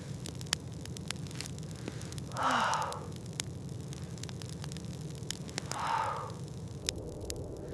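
A person's heavy breathing: two long, breathy exhales, about two and a half and six seconds in, over a steady low rumble with scattered faint clicks.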